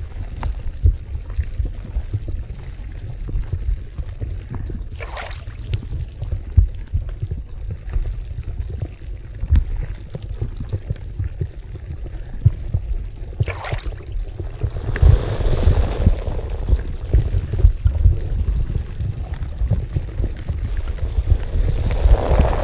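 Bath water in a carbonated hot spring bubbling and churning with a steady low rumble. Two brief sharp water sounds come a few seconds apart, and about two-thirds through the water sound becomes fuller and splashier.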